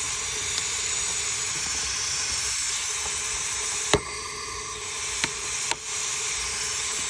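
Steady hiss of pressurized air escaping from a leak in the radiator's lower tank during an air pressure test of the cooling system. A sharp click sounds about four seconds in, with two lighter clicks after it.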